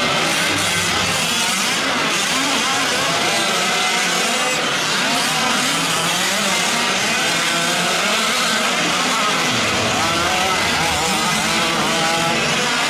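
Several fifth-scale gas RC trucks racing, their small two-stroke engines overlapping and constantly revving up and down as they accelerate and back off around the track.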